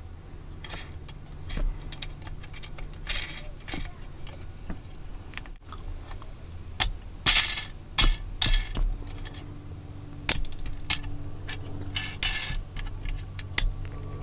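Small metal hardware being handled and fastened: wing nuts, washers and U-bolts clicking and clinking against an aluminum L-bar, with a few longer scraping rattles among irregular sharp clicks, over a faint low hum.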